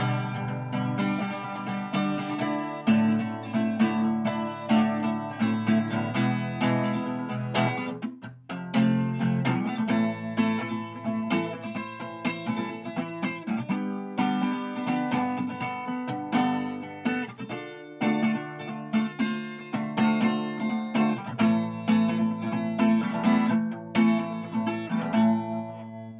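Acoustic guitar playing an instrumental cover, picked and strummed chords, with a brief break about eight seconds in; the playing stops at the very end.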